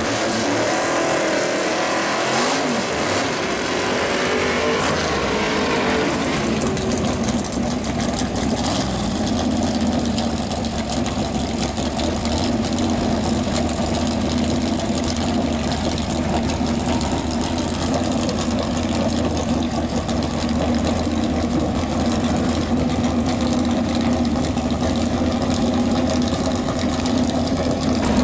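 Chevrolet V8 breathing through eight velocity-stack injectors in a 1965 Ford Falcon drag car. Its pitch rises and falls a few times in the first six seconds or so, then it settles to a steady, even run.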